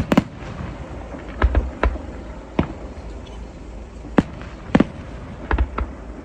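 Fireworks going off: about eight sharp bangs at uneven intervals, some in quick pairs, over a steady low rumble.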